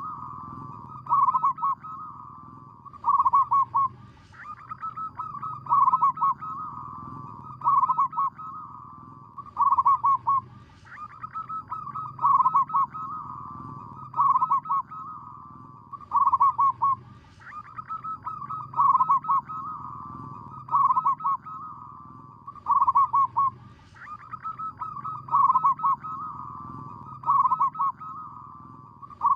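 Zebra dove cooing: fast stuttering runs of soft coos, a phrase about every two seconds, pausing briefly every six to seven seconds and starting again.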